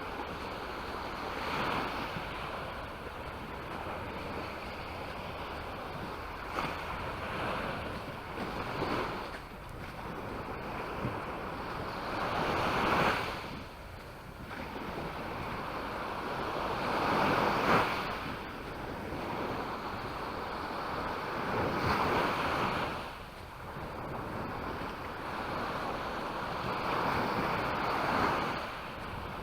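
Waves breaking on the shore, a steady wash of surf that swells and falls back, with louder breakers about every four to five seconds.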